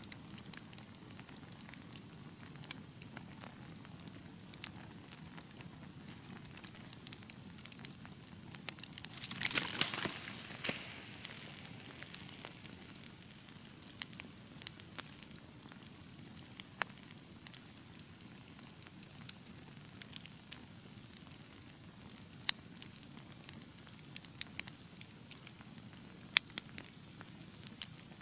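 Wood fire in a fireplace crackling: scattered sharp pops over a low steady rumble, with a dense flurry of crackles about ten seconds in and a few louder single pops later on.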